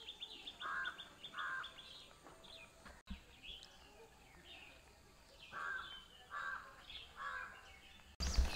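Birds calling: a few harsh, caw-like calls, two near the start and three in a row near the end, over quick high chirping.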